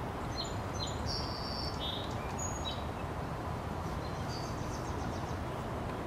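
A steady low outdoor background rumble, with small birds calling over it: a few short high chirps and one longer high note in the first three seconds, and fainter chirps about four to five seconds in.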